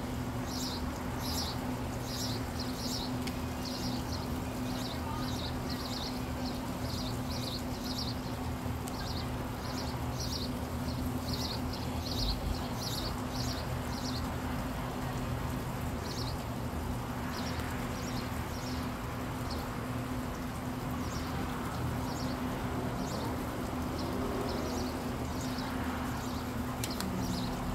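A bird calling with short, high chirps, about two a second for the first half, then more sparsely, over a steady low hum.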